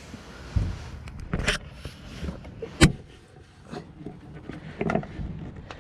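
Knocks, clunks and scraping of parts being worked loose and lifted out of a pickup truck's engine bay, with one sharp knock about three seconds in.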